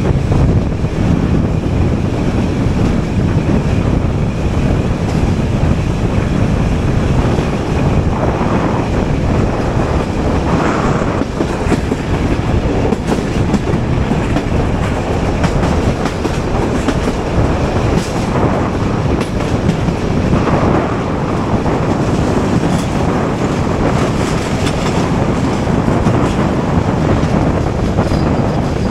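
Passenger train running along the track with a steady rumble, its wheels clacking irregularly over the rail joints.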